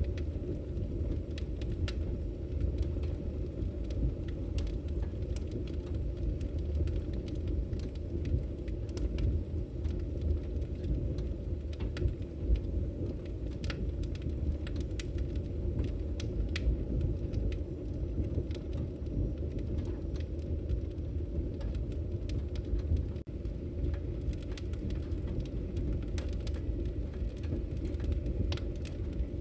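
Wood fire in a fireplace burning with a steady low rumble, with frequent small crackles and pops scattered throughout.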